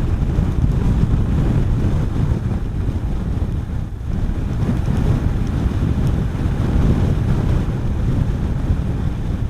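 Wind rushing over the microphone of a Honda CB400SS motorcycle at riding speed: a loud, steady, low rumbling rush of noise that dips briefly about four seconds in.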